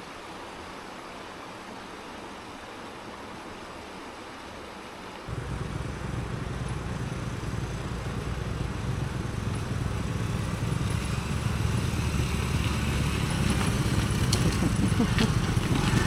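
Honda CT110 postie bike's small single-cylinder engine running, with an even hiss for the first five seconds. The engine comes in suddenly about five seconds in and grows steadily louder toward the end.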